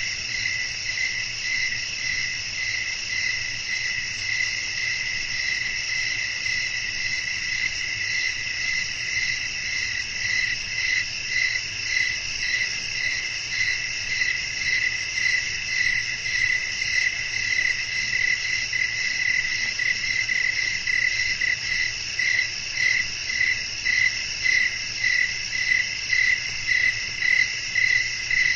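Night chorus of crickets chirring steadily, high-pitched, with one call pulsing about one and a half times a second that grows louder in the second half.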